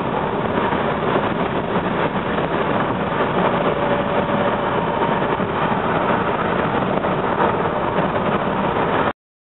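Steady running noise of a moving commuter train heard from inside the passenger car: an even rush of wheels on rail with faint held tones, cutting off suddenly near the end.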